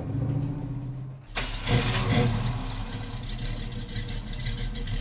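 1970 Ford Mustang V8 running with a steady low rumble, heard from inside the cabin. About a second and a half in, the engine fires up sharply, revs and settles into a steady idle.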